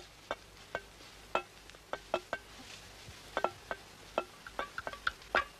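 Sparse percussion music: scattered single knocks with a short pitched ring, like a wood block or struck bells, coming closer together toward the end.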